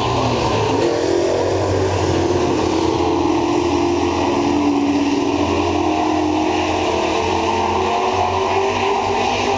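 Racing super truck engines running hard around a dirt oval, several engines overlapping. Their pitch dips and rises about a second in, then holds fairly steady.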